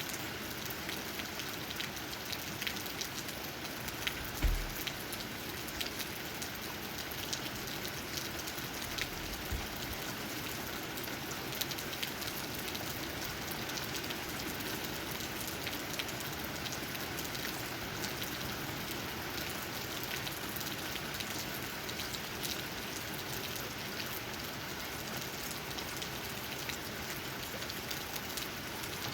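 Steady rain, with many separate drops tapping on leaves. A brief low thump sounds about four seconds in.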